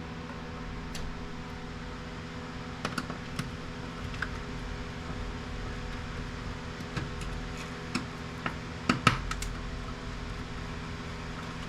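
Scattered light clicks and knocks of plastic and metal printer parts being handled and pulled apart during disassembly, the loudest in a quick cluster about nine seconds in, over a steady hum.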